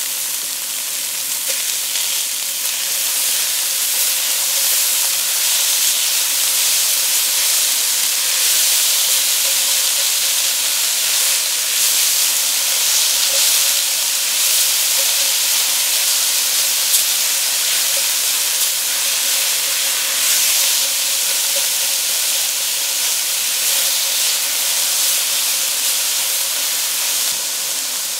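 Crumbled tofu and diced carrot frying in oil in a stainless steel wok: a steady sizzle.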